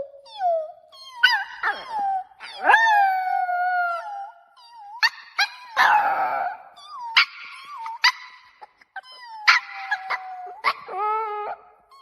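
A Pomeranian puppy howling and whining in long, wavering cries that slide down and up in pitch, broken by short, sharp yips.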